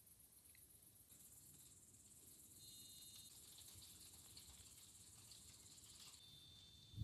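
Faint, steady high-pitched chirring of crickets at night.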